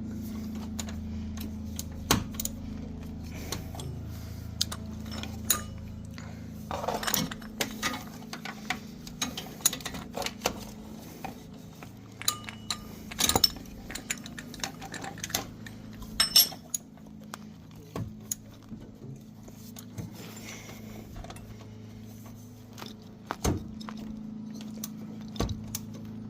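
Metal hand tools clinking, tapping and scraping in irregular clusters while a stuck, overtightened oil filter is being worked loose, over a steady low hum.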